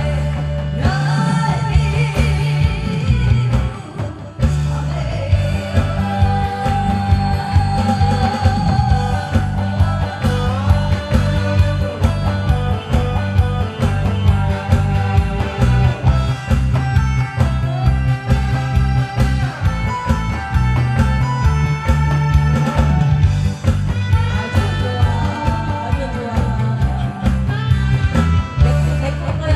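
A woman singing a trot song live, her voice wavering with vibrato, over an amplified backing track with a steady beat, bass and guitar.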